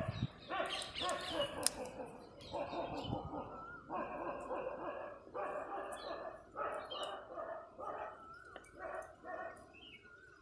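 A dog giving a string of drawn-out cries, each about a second long, growing fainter toward the end.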